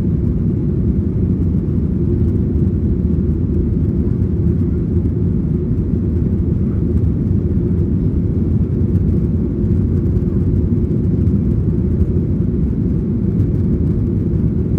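Boeing 737-900ER in its climb after takeoff, heard inside the cabin from a seat behind the wing: the CFM56-7B engines and the airflow make a steady, low rumble that does not change.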